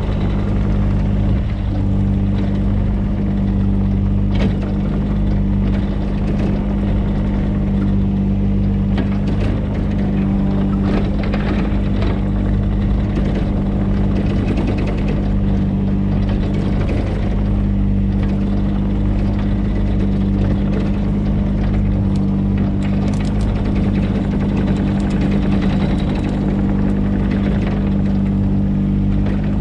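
Mini excavator engine running steadily under load, with scattered knocks and scrapes from the digging work.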